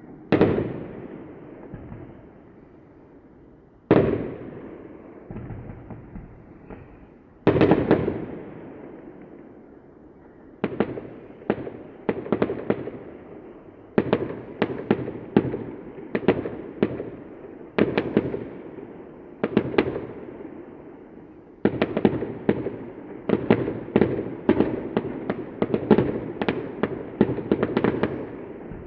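Aerial fireworks shells bursting: three single heavy bangs, each followed by a long echoing rumble, in the first eight seconds, then a quickening barrage of many sharper bangs and crackles that grows densest over the last seven seconds.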